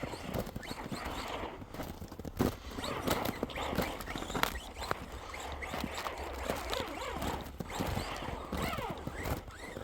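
Electric RC truck driving through snow: an irregular crunching and crackling of tyres in the snow, with a few short rising whines of the motor speeding up near the end.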